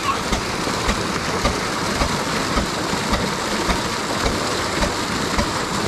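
Old Ruston diesel engine running a tubewell pump, a slow steady beat of a little under two firing strokes a second, over the steady rush of pumped water.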